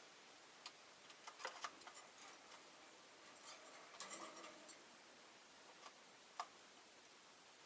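Sparse small clicks and ticks from rosy-faced lovebirds in their cage, a few about a second and a half in, a brief cluster about four seconds in and a single one near the end, over a faint hiss.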